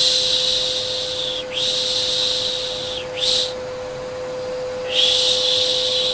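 Repeated shushing ('shhh', piş piş) as a lulling sound for a baby, in hissing strokes of about a second and a half, with a longer pause around the middle. Underneath runs the steady hum of a vacuum cleaner with a constant tone.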